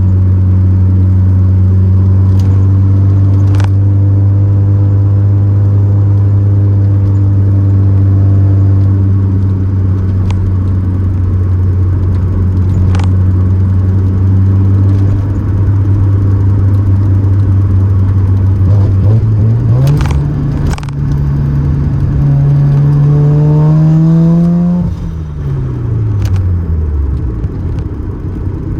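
1988 Mazda RX-7's 13B rotary engine running steadily while driving, then revving up about two-thirds of the way through, with a couple of sharp clicks as it climbs, and the revs falling away near the end.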